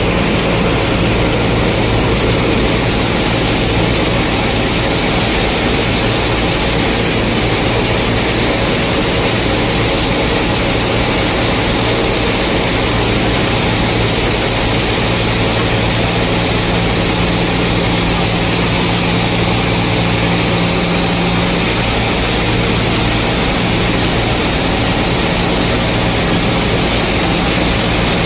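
Combine harvester's diesel engine and machinery running steadily, a loud, even drone with a constant low hum.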